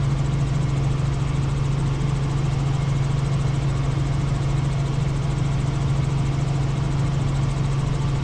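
Helicopter in flight: a steady, loud low drone of rotor and turbine engine.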